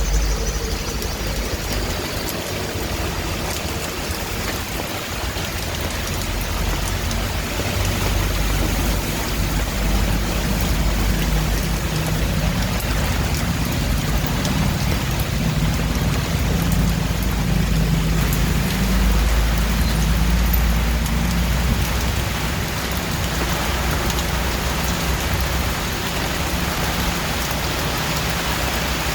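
Steady heavy rain hissing on surfaces, with a low rumble underneath that swells and fades, strongest a little past the middle.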